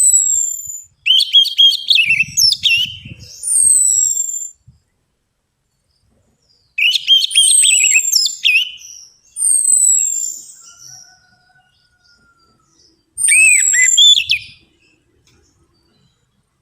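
Orange-headed thrush singing: five bursts of quick, varied phrases mixing rapid notes with high descending whistles, separated by short pauses.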